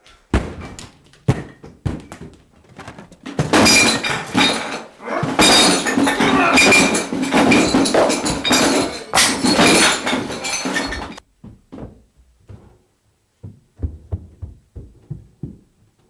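A series of thuds and clattering crashes: a few separate knocks, then a loud stretch of continuous crashing and clatter from about three to eleven seconds in, then scattered lighter knocks.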